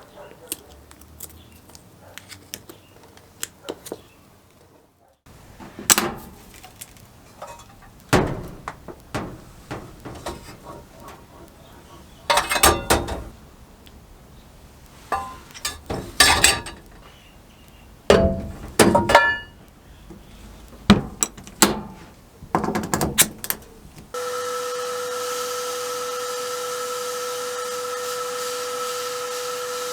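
Carburetor parts being handled on a workbench, with a string of sharp metal clinks and knocks. About three-quarters of the way through, a steady machine hum with a constant high tone starts and runs on.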